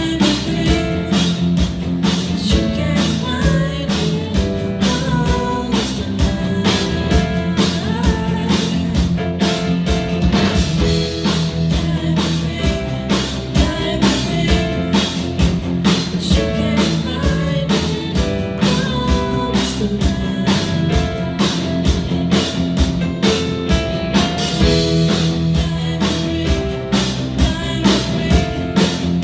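Rock music with a drum kit keeping a steady beat under guitars.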